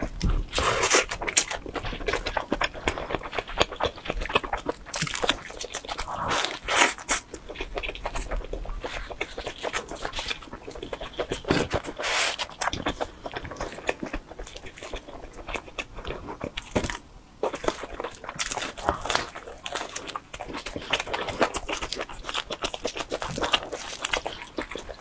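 Close-miked chewing and biting of pizza, with irregular wet mouth smacks and small crunches of crust, picked up by a clip-on microphone.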